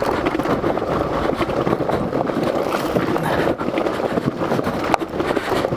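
Suzuki DRZ400SM supermoto rolling downhill on a loose dirt trail with the engine off: a steady rough crunch and rattle of knobby tyres on gravel and the bike shaking over the ruts, mixed with wind noise on the microphone.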